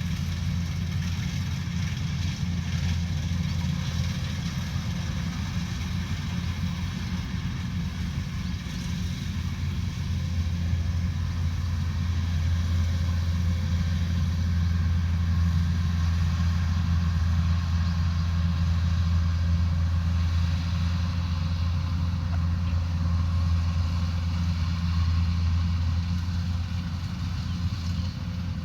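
Combine harvester's diesel engine running steadily with a low, even drone, a little louder through the middle stretch.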